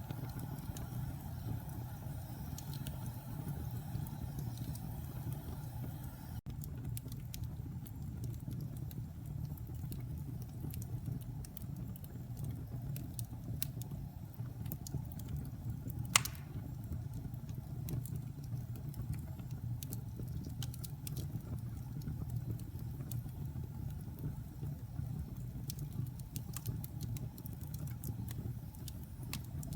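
Wood fire in a fireplace crackling, with scattered small pops over a steady low rumble and one sharp, loud pop about sixteen seconds in.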